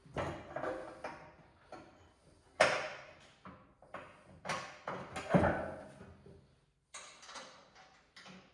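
Irregular clanks, knocks and rattles of the steel back drag blade, its springs and hardware being handled and fitted to an ATV snow plow. Two sharp, loud knocks ring out about two and a half and five and a half seconds in.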